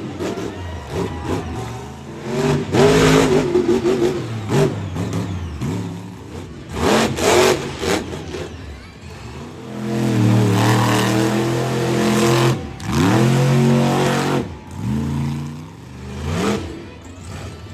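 Monster truck engine revving hard in repeated bursts, its pitch climbing and falling, with a longer held run at high revs about ten seconds in.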